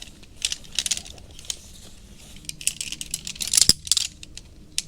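Shock-corded aluminium poles of a Big Agnes Skyline UL camp chair clicking and rattling together as the frame is unpacked and assembled, in a run of small clinks with a sharp click about three and a half seconds in.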